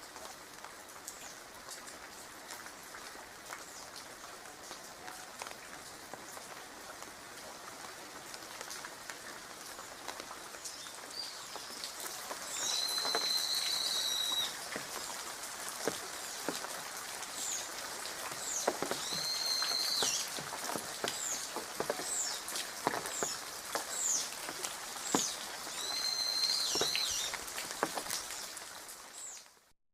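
Steady rain with scattered drips and drops. From about twelve seconds in, a bird calls repeatedly over it: three longer calls of about a second and a half each and many short chirps.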